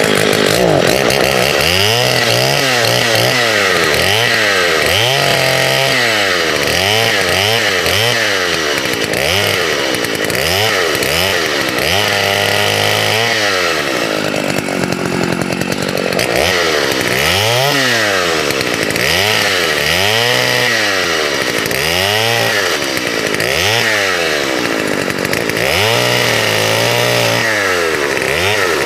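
Vintage Partner two-stroke chainsaw running at full noise, revving up and falling back again and again as it cuts through branches.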